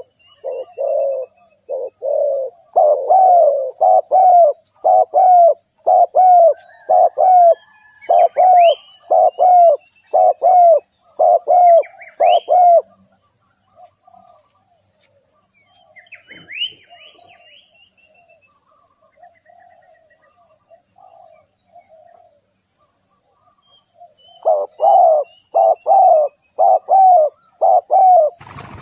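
Spotted dove cooing in a quick, regular series of short coos, about one and a half a second. The coos stop about halfway through, leaving a few faint chirps of small birds, and start again near the end. A faint steady high-pitched whine runs underneath.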